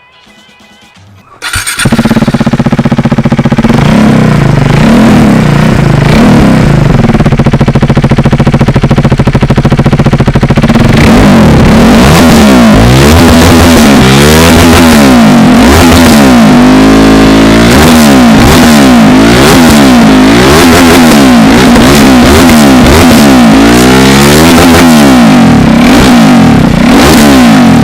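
KTM RC 390's single-cylinder engine through a loud changed exhaust, coming in suddenly about a second and a half in and running near idle with small revs. From about eleven seconds in it is revved over and over, its pitch rising and falling with each blip.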